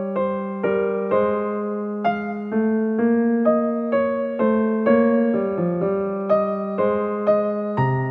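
Electric piano playing a slow, even run of chords, a new chord struck about every half second and left to ring.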